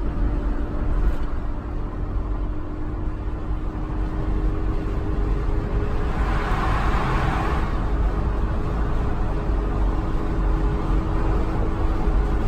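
Car driving at highway speed, heard from inside the cabin: a steady low road-and-engine rumble with a faint even hum. A rushing noise swells and fades about six to eight seconds in.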